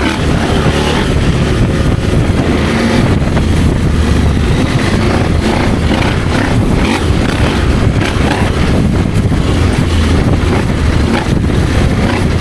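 Adventure motorcycle's engine running steadily while riding off-road, heard under heavy wind and riding noise on the microphone.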